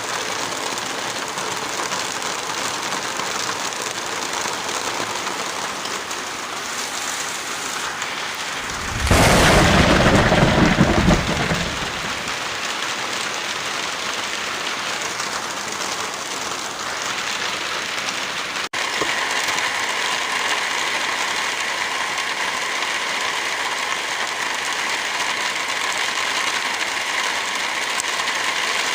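Steady rainfall hissing, with a loud, deep clap of thunder about nine seconds in that lasts two or three seconds. About two-thirds of the way through the sound breaks off for an instant and the rain resumes with a slightly different, brighter texture.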